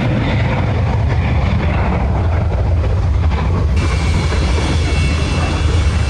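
Deep, steady roar of the Antonov An-225's six turbofan engines. A high whine joins the roar about four seconds in.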